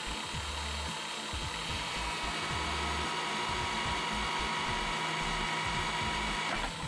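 Electric drill's universal (commutator) motor, run through a TDA1085C speed controller, drilling with a steady whine. Its pitch shifts a little about two and a half seconds in and dips briefly near the end.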